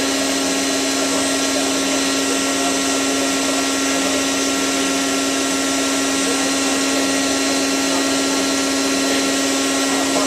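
Hotpoint 9534A washing machine on its high-speed final spin: a steady motor whine over the rushing of the spinning drum.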